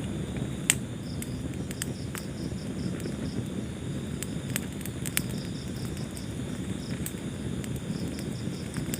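Wood fire burning in a fireplace: a steady low rush of flames with sharp crackles and pops every second or two, the loudest less than a second in. Over it runs a high, evenly pulsed chirping that comes and goes in short runs.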